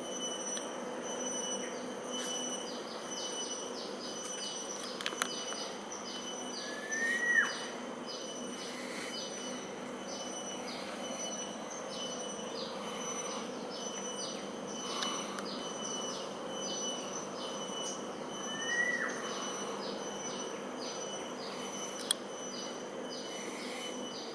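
Mangrove insects chirping and buzzing steadily in a rapid, even rhythm, with birds calling; twice a bird gives a short rising whistle.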